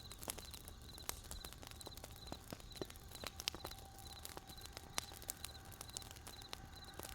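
Wood campfire crackling, with sharp irregular pops and snaps. Under it a cricket chirps steadily, short three-pulse chirps about twice a second.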